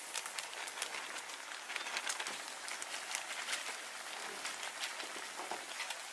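Food sizzling in a frying pan: a steady hiss with many small crackling pops.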